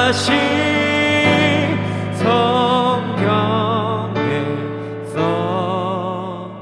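Worship song: a single singer holding long, wavering notes over piano accompaniment.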